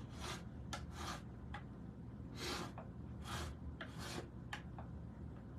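A hand scraper dragged across painted wood paneling in about seven short strokes, each less than a second long. The scraper is lifting paint where candle wax was rubbed on underneath, the candle-wax resist method for a chippy, weathered finish.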